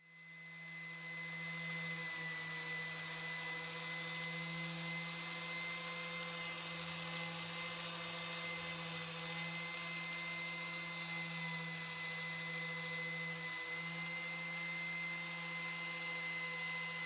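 Small electric power tool running at a steady, unchanging speed, with a constant whine and a high hiss. It fades in over the first second or so.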